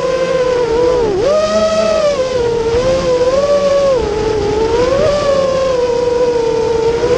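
Racer Lion 210 motor running with a steady high pitch that wavers up and down, dipping briefly about a second in.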